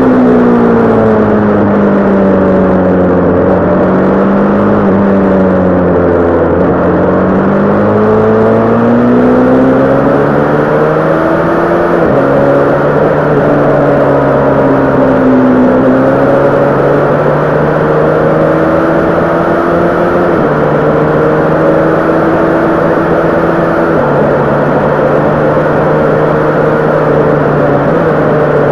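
Honda CB500 parallel-twin engine under way, its note rising and falling with the throttle. There are several sudden steps in pitch where the rider changes gear.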